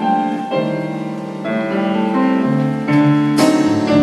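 Jazz piano playing a short instrumental fill of changing chords, with lower notes coming in past the halfway point.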